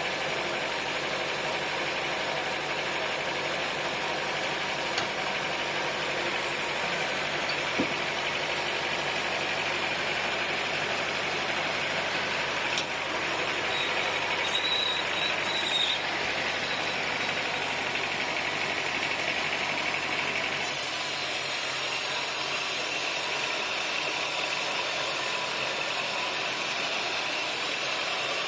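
Sawmill machinery running steadily, an engine-like drone with a brief high whine about 14 seconds in; the sound turns thinner and hissier, with less low rumble, about 21 seconds in.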